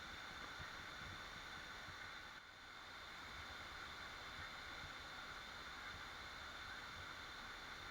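Waterfall rushing steadily, with a brief dip in level about two and a half seconds in.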